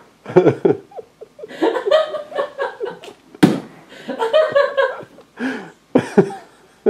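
A person laughing in repeated short bursts, with one sharp knock about three and a half seconds in.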